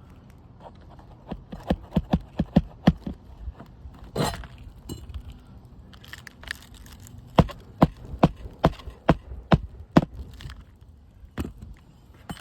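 Hammer driving roofing nails through a shingle: two runs of sharp, rapid blows, one nail after another, with a scraping rustle in between.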